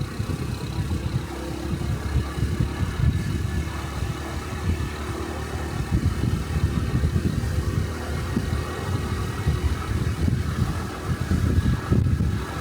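A 125 cc Honda Cub motorcycle's single-cylinder engine running while riding, with wind rumbling on the body-mounted microphone.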